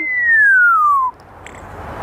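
African grey parrot whistling one long falling note that glides steadily down and stops a little over a second in, its imitation of something falling.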